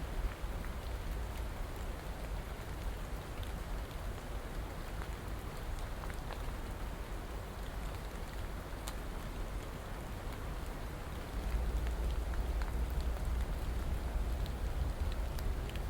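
Steady rain falling, an even hiss with scattered sharp drop ticks. A low rumble runs underneath and gets louder about eleven seconds in.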